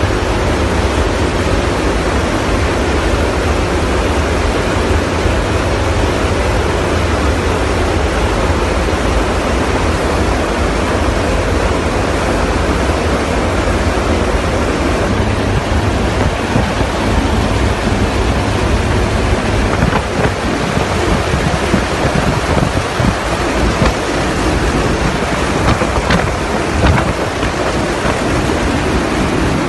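Loud, steady rushing noise of an aircraft in flight, with no clear engine tone. It becomes a little uneven in level about two-thirds of the way through.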